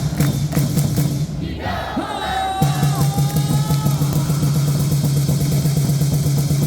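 Cheer music over a baseball stadium's loudspeakers, with a steady beat and a crowd's voices. A short burst of crowd voices comes about two seconds in.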